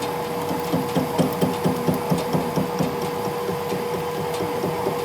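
Workshop machine running with a steady hum, with a rapid run of knocks, about four or five a second, that fades out after about three seconds.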